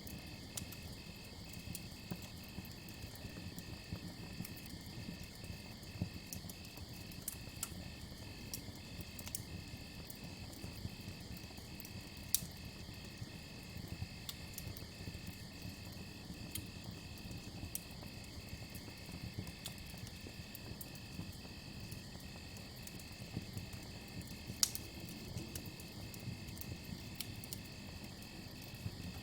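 Crickets chirping in an even rhythm, about two chirps a second, over a crackling campfire with scattered sharp pops and a low rumble. The loudest pops come about twelve seconds in and again near the end.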